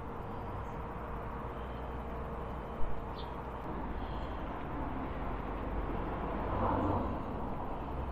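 Outdoor road traffic: a steady low rumble with a vehicle passing, swelling to its loudest about seven seconds in. A single sharp knock about three seconds in.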